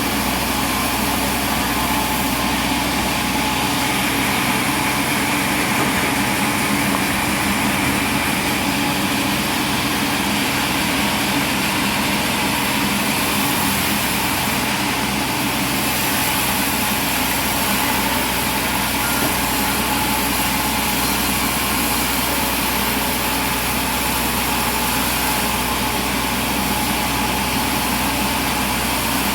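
Sawmill machinery running steadily: an even, continuous mechanical drone with a faint hum, unchanging throughout.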